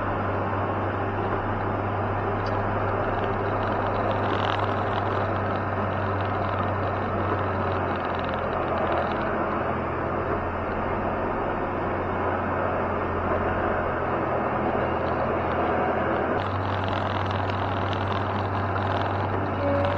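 Heavy snow-removal machine's engine running steadily under work, a low hum with a noisy mechanical wash over it. Its note shifts twice, about eight seconds in and again near the end.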